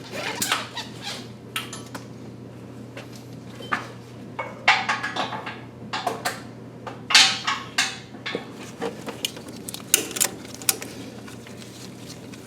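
Irregular metallic clicks, clinks and rattles from tools and hardware being worked while an engine is lowered onto its mount, with small clusters of clanks about halfway through.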